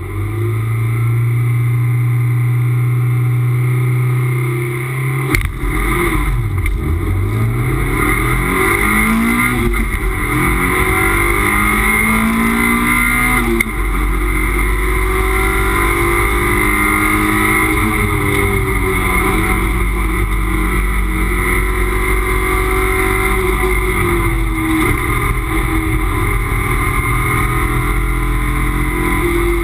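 Toyota MR2 race car's engine heard from inside the cockpit. It is held at steady revs for about five seconds, then its pitch dips and climbs as the car pulls away. It then revs up through a series of gear changes under hard acceleration.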